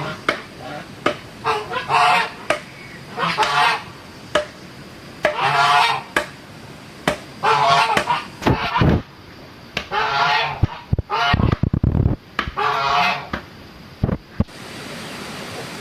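Domestic waterfowl from a flock calling loudly: about six harsh honking calls, roughly two seconds apart, with sharp clicks and a few low thumps between them. A steady rushing noise starts near the end.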